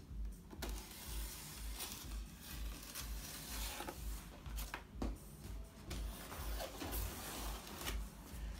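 Cardboard shipping box being handled and opened: a string of rustling, scraping and tearing noises, with a low pulsing hum underneath.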